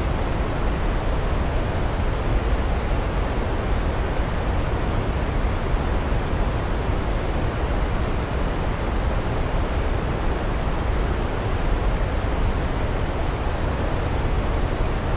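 Waterfall rushing in a steady, unbroken deep hiss.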